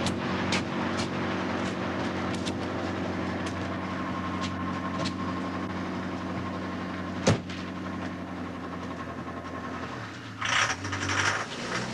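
A steady mechanical hum and rumble with scattered faint clicks. A single sharp knock comes about seven seconds in, and there are rustling noises near the end.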